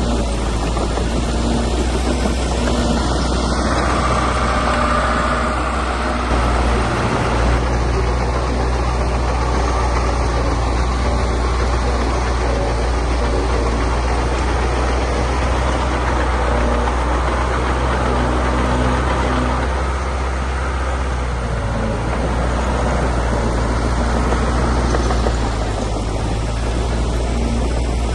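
Heavy earthmoving machinery working, a diesel engine running steadily with a low drone that shifts slightly in pitch a couple of times.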